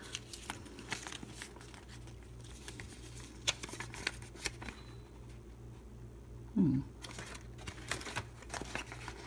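A toy blind-bag wrapper being crinkled and torn open by hand: irregular crackles and rustles. A short, louder low sound comes about two-thirds of the way through, over a steady low hum.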